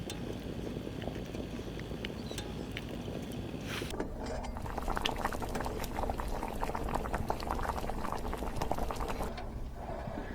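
Liquid bubbling and sizzling over heat. About four seconds in it turns into a dense, fast spitting crackle that eases off shortly before the end.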